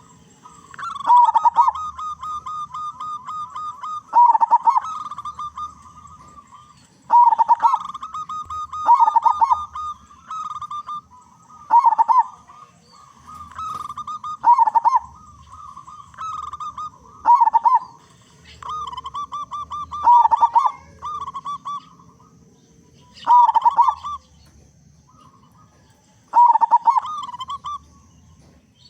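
Zebra dove (perkutut) singing its cooing song about ten times, roughly every three seconds: each phrase opens with a few loud clipped notes and runs into a rolling, trilled coo.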